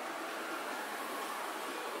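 Trenord double-deck regional coaches rolling past the platform as the train pulls out, a steady rolling noise of wheels on rail.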